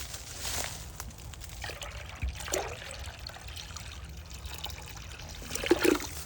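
Water trickling as it is poured from a container into a bird bath, briefly louder near the end.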